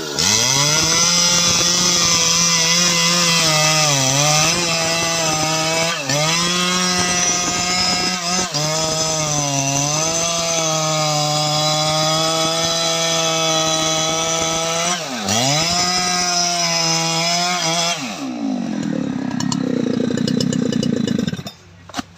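Jonsered 2095 Turbo 93.6 cc two-stroke chainsaw held at full throttle cutting teak, its revs dipping briefly several times as the chain loads up in the wood. Near the end the revs drop back to a lower, rougher speed, and the sound falls away abruptly just before the end.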